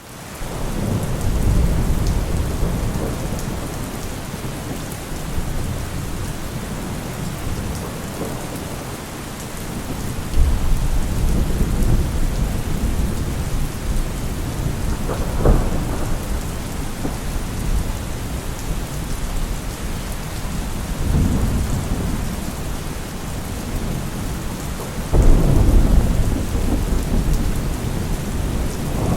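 Heavy rain falling steadily while thunder rumbles again and again, the rumbles swelling and fading, with one sharper thunderclap about halfway through.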